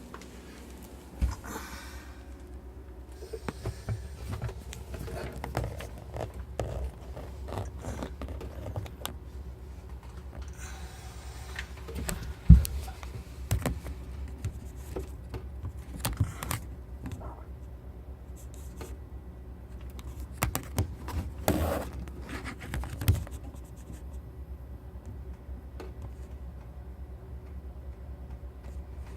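Irregular scrapes, clicks and knocks of hands handling hard objects over a low steady hum, with one sharp knock about twelve seconds in.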